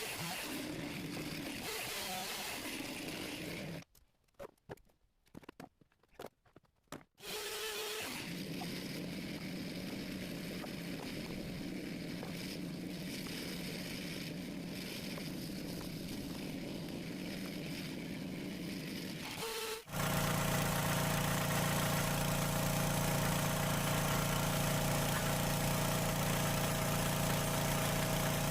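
Engine running at a steady speed, broken by a few seconds of near-silence with short bursts. About two-thirds of the way in, a sudden cut brings a louder, closer engine running steadily.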